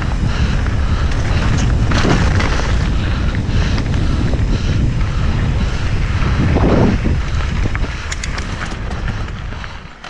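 Wind buffeting the camera microphone during a mountain-bike ride down a trail, a loud low rumble mixed with the rattle and clicks of the bike on rough ground. It quietens about eight seconds in.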